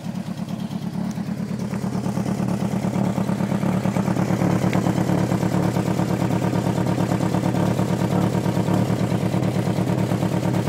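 Mk2 VW Golf's turbocharged four-cylinder engine, with a draw-through turbo and a Weber carburettor, running with a fast, rough exhaust pulse. Its tacked-up exhaust is blowing a lot at its joints. The sound grows louder over the first few seconds and then holds steady.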